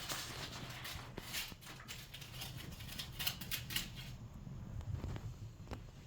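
Light, scattered taps and scuffs of a kitten scampering after a thrown toy and batting it across the floor, thinning out after about four seconds, over a faint steady hum.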